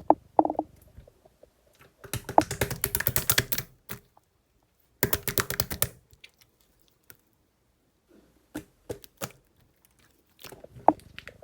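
Close-miked chewing of a macaron: two bursts of rapid crackly crunching, about two seconds in and again about five seconds in, with scattered single mouth clicks between them.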